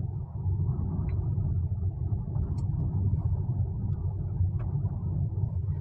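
Porsche Cayenne running, a steady low rumble with a few faint clicks.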